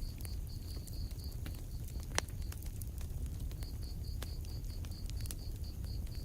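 Wood fire crackling in a fireplace: scattered sharp cracks with one loud pop about two seconds in, over a low rumble of the burning. A high, evenly pulsed chirping, about five pulses a second, runs through the first second and a half and comes back from about three and a half seconds in.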